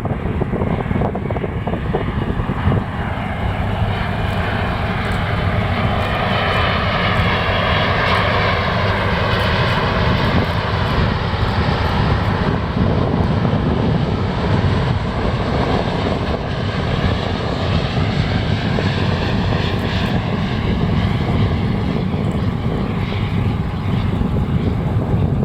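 Jet airliner on final approach passing low overhead. Its engine noise swells, with a whine that glides down and back up as it goes by, over a steady low rumble.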